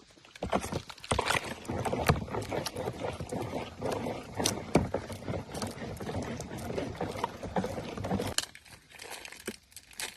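Busy handling noise: many irregular small knocks and clatters over a rustling scrape, which stops about eight seconds in.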